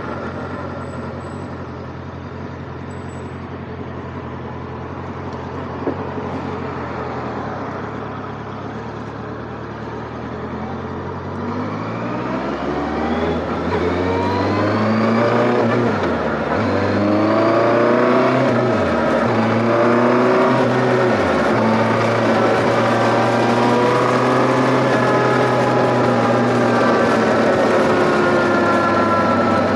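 Benda LFC 700 Pro motorcycle's inline-four engine heard from the rider's seat: running evenly at low speed, then accelerating from about halfway through, its pitch climbing and falling back at three quick upshifts before settling into a steady cruise.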